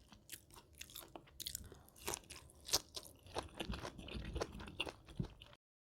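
Close-miked chewing and crunching of food, a dense run of irregular crisp crackles and soft bites. The sound cuts off abruptly about five and a half seconds in.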